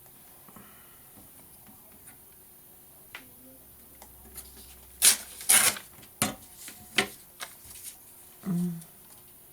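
Paper being handled and cut for collage: a run of sharp paper rustles and snaps, loudest about five seconds in, then a short low hum near the end.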